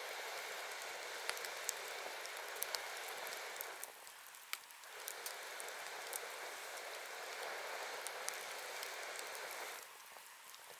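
Wood fire burning with a steady hiss and scattered sharp crackles and pops. The hiss drops away for about a second around four seconds in, and again near the end.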